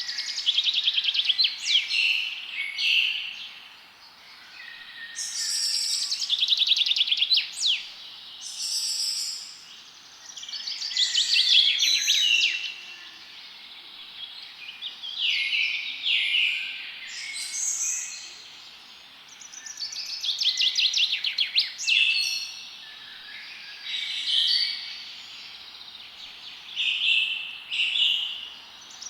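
Songbirds singing in a forest: trilled song phrases, each a second or two long, repeating every few seconds over a faint steady hiss.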